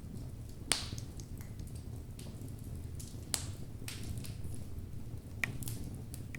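Wood fire burning in a fireplace: a low steady rumble of the flames with scattered sharp crackles and pops from the burning logs, the loudest pops about a second in, halfway through and near the end.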